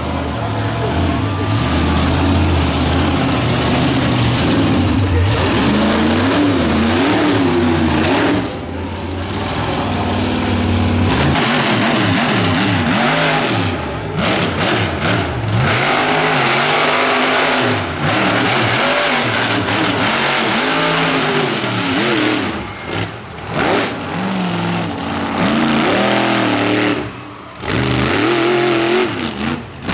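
Monster truck engine running loud, then revving up and down again and again from about a third of the way in, with short lulls between the revs.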